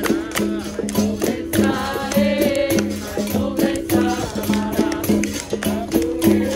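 Capoeira roda music: a berimbau alternating between its two notes in a steady rhythm, shaken with a caxixi rattle, over hand-percussion strokes, with voices singing a call-and-response song in the middle.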